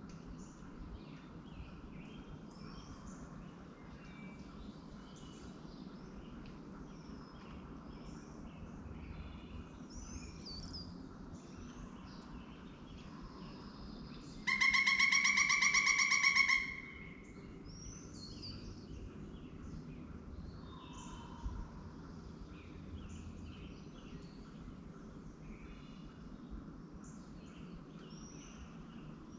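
Birds chirping, with many short, high chirps scattered throughout. About halfway through, one loud, drawn-out call lasts about two seconds.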